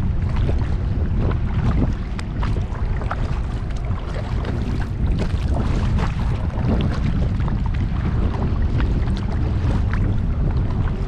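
Wind buffeting the microphone with a steady low rumble, over many small splashes and drips of water around a kayak on a lake.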